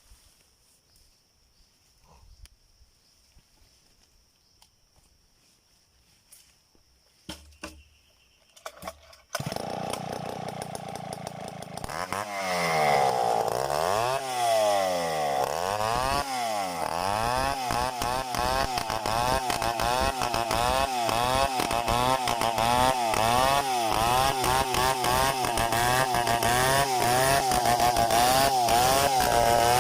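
Near silence with a few clicks for about nine seconds. Then a chainsaw engine comes in suddenly, is revved up and down several times, and settles at high revs with its pitch wavering.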